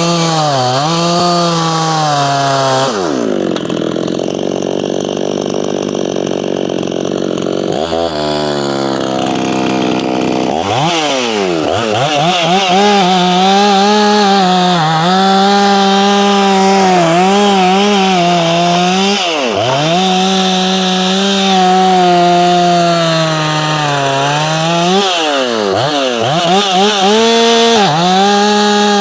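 Ported Efco 165 two-stroke chainsaw running at high revs while cutting wood, its pitch dipping again and again as the chain loads in the cut and picking back up. About three seconds in it drops to a lower, rougher running for several seconds, then revs back up.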